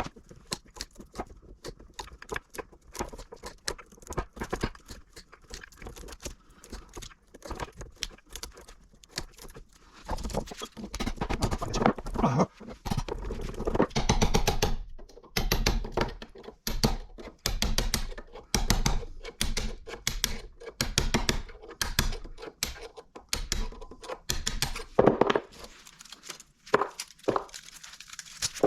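Repeated irregular knocks and clanks of metal being struck as a small electric motor is banged apart to free its copper windings, with louder clusters of blows in the middle stretch. The part resists.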